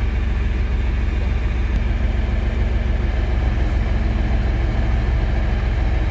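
Monster truck engine idling steadily.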